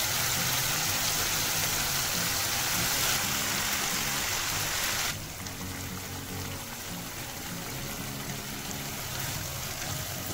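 Chicken pieces sizzling and bubbling in hot oil and masala gravy in a frying pan. The sizzle is loud at first, then drops suddenly about five seconds in to a quieter bubbling. Background music plays throughout.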